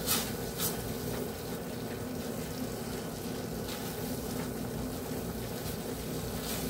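Tomato-onion masala sizzling gently in a nonstick kadhai as it is fried down until the tomatoes soften. Now and then a plastic spatula stirs it and scrapes the pan.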